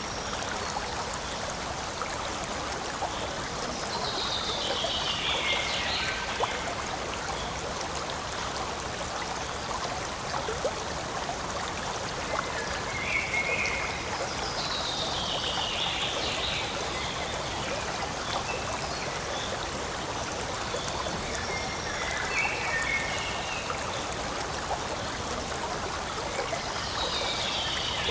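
Forest stream flowing and trickling steadily over stones. Three times, about every eleven seconds, a high call sweeps downward over it, with a few short chirps between.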